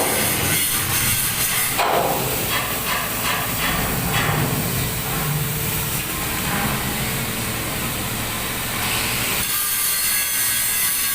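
Steady metalworking noise inside a steel tanker hull: a continuous hiss with a faint whine, typical of an angle grinder working on steel nearby. A run of metallic knocks comes about two to four seconds in.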